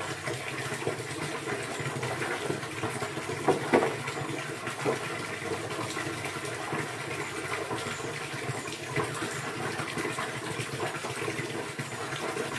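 Steady rushing of running water, with a few brief sharper splashes, the loudest about four seconds in.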